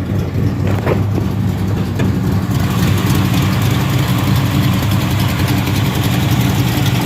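Rebuilt 355 small-block Chevy V8 running steadily, growing louder about two and a half seconds in.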